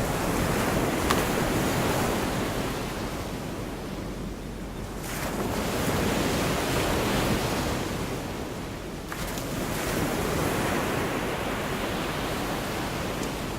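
Gulf of Mexico surf: waves breaking and washing on a beach, the noise swelling and fading three times.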